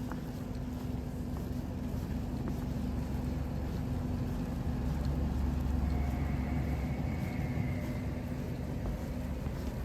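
Low engine drone with a steady hum, swelling to its loudest about six seconds in and then easing off, as a motor vehicle or boat passes.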